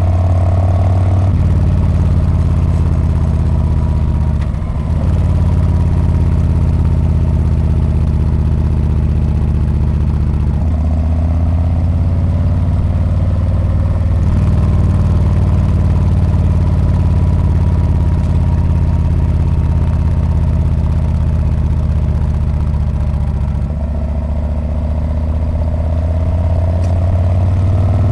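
Harley-Davidson Street Bob's V-twin engine and exhaust running on the move, a steady low note that shifts in engine speed a few times, with a brief drop in level about five seconds in.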